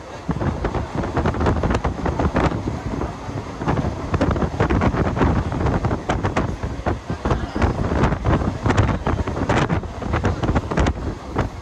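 Mumbai suburban electric local train running, heard from inside the coach at an open door or window. Wind buffets the microphone over the rumble of the coach, with a rapid, irregular clatter of knocks throughout.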